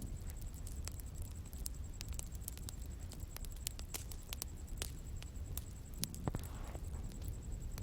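Wood bonfire crackling, with irregular sharp pops and snaps over a low, steady rumble of flame, and one louder pop about six seconds in. A faint, steady high-pitched tone runs beneath it.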